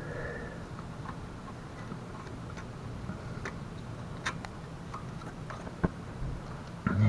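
Scattered light clicks and taps of hand work on mobility scooter parts, over a steady low hum. There is one sharp knock just before six seconds in and a louder knock right at the end.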